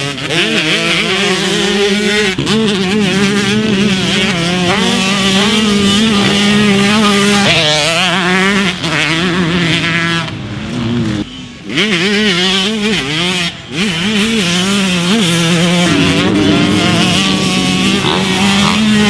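Big-bore Yamaha YZ125 two-stroke motocross engine being ridden hard, its note rising and falling as the rider works the throttle through the gears. About ten seconds in the engine drops off briefly, then picks up again.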